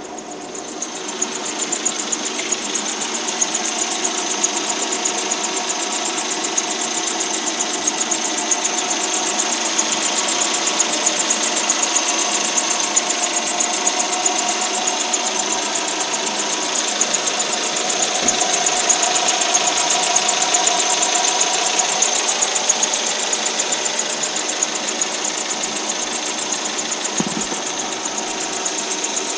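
Subaru SH5 Forester engine running with an abnormal drive-belt noise: a fast, high-pitched repeating noise over the engine's steady hum, getting louder about a second in.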